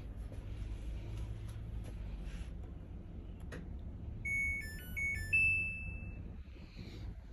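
Samsung Grande washer-dryer control panel playing its short electronic jingle: a few quick beeping notes that end on one held note, over a low steady hum.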